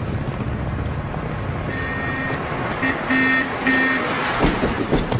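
Vehicle horn honking four times at one steady pitch, one long blast, then a short one and two medium ones, over a low engine rumble.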